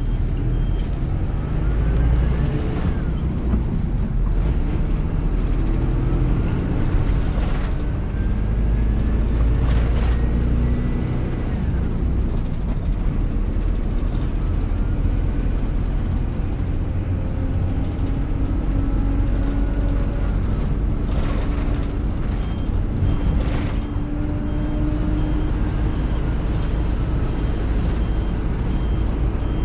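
City bus driving: its engine runs with a heavy low rumble, and the engine note climbs and falls as the bus pulls away and changes speed. A few sharp knocks or rattles are heard along the way.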